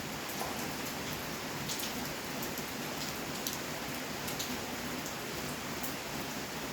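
Steady rain falling on outdoor surfaces, with scattered sharper drops ticking through the hiss.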